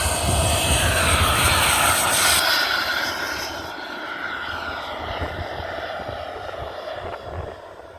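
Airplane engine whining loudly as it passes, its pitch dropping slightly, then fading as it moves away over the second half.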